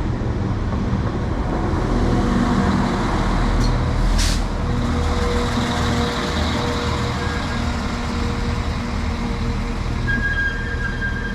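Class 195 diesel multiple unit running steadily, with a low engine hum under a steady rushing noise. A single sharp click comes about four seconds in, and a steady high tone starts near the end.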